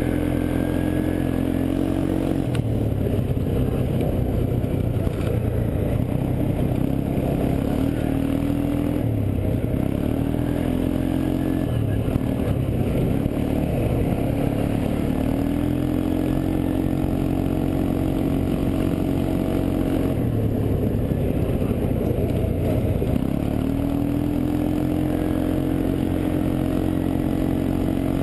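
ATV engine running on the trail, its revs falling and rising again several times.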